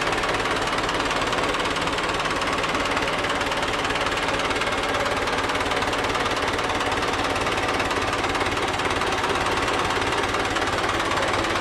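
Yamaha F.A.S.T26 boat's engine running steadily after being started, with a fast, even knocking beat.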